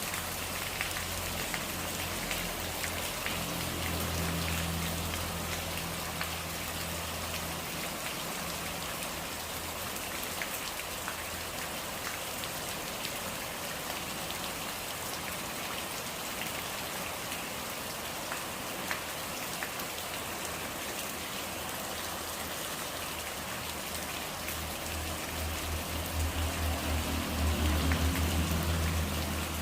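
Steady rain falling on a hard surface, an even hiss flecked with the ticks of single drops. A low hum sits under it for the first several seconds and comes back louder near the end.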